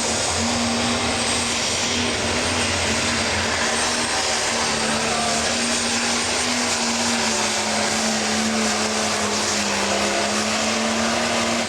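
Pro Stock pulling tractor's turbocharged diesel engine running flat out under load down the track, with a high turbo whine over a steady engine note. The sound falls away at the very end as the run finishes.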